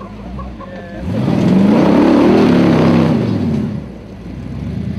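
Formula Offroad car's engine revving hard, its pitch rising from about a second in and falling away again just under three seconds later.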